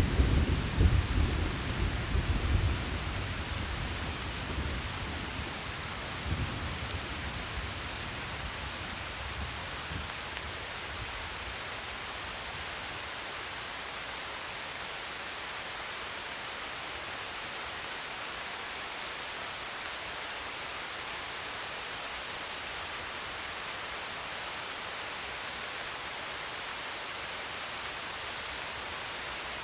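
Steady rain with a rumble of thunder in the first few seconds that dies away, and fainter rumbles about six and ten seconds in; after that only the even hiss of rain.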